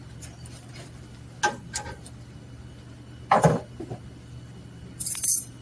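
Metal hand tools clinking and knocking during spark plug work: a few separate knocks, the loudest a little past halfway, then a short hissing rustle near the end.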